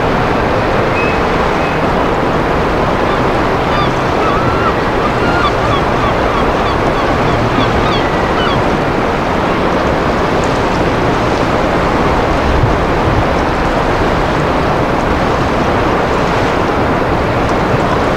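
Steady rush of wind and sea surf, with a low steady hum underneath. Faint high chirps come through about four to eight seconds in.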